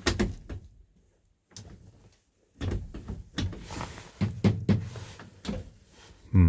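A series of irregular knocks and thumps, like things being handled and knocked about, with the loudest thump near the end and a brief near-silent gap about a second in.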